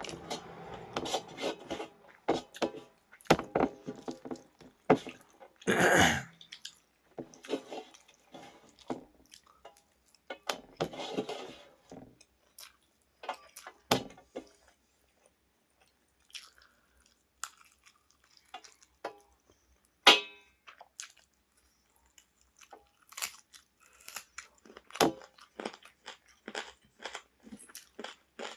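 Someone eating chilli chicken: irregular chewing and crunching with scattered sharp clicks and clatters of dishes.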